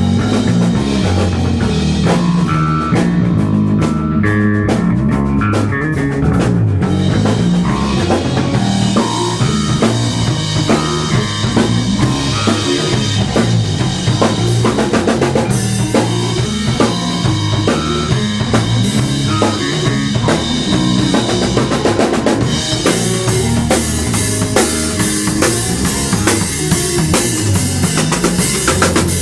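A rock band playing, with a full drum kit to the fore: bass drum and snare keeping a steady beat.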